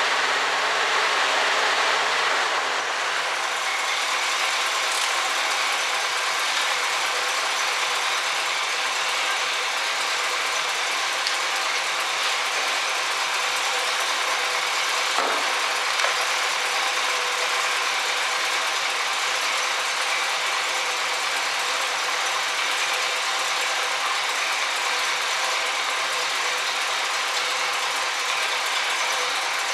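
1967 Chevy Camaro engine idling steadily with the hood open, easing slightly quieter about two seconds in.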